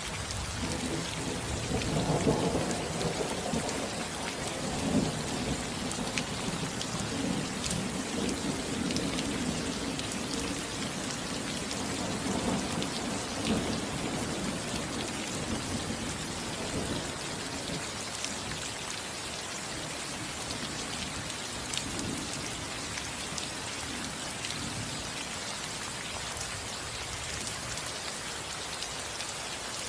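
Steady rain on a roof, hissing with scattered drop ticks. A roll of thunder rumbles in about a second in, is loudest about two seconds in, and rolls on for around fifteen seconds before dying away.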